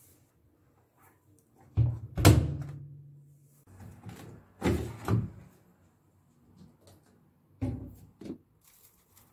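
Household knocks and thuds in a small room: three pairs of bumps about three seconds apart, the loudest about two seconds in, followed by a short low ring.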